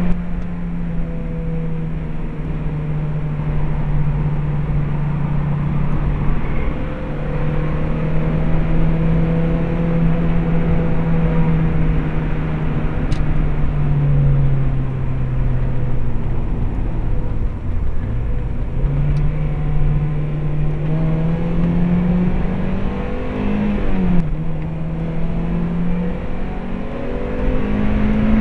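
Stock 1.8-litre four-cylinder engine of a Mazda MX-5 heard from inside the cabin, pulling steadily at lap pace over loud road and wind noise. The engine note sags about halfway through, drops sharply as the throttle comes off, then climbs again. Near the end there is a quick dip and rise in pitch.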